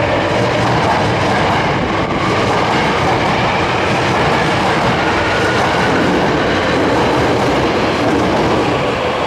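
Subway train running along an underground station platform, a steady loud rumble with wheels clattering over the rail joints and a faint wheel squeal.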